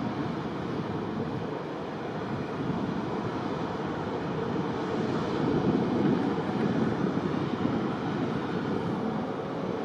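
Steady rush of airport apron machinery with a faint high whine, swelling a little about five to seven seconds in.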